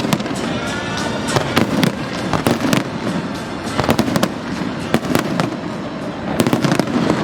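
Fireworks bursting in quick, irregular succession: sharp bangs, several a second, over continuous crackling.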